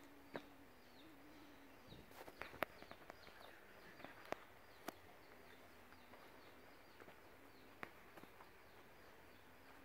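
Near silence, with small birds chirping faintly and repeatedly in the background and a few sharp clicks scattered through it, the loudest about two and a half seconds in.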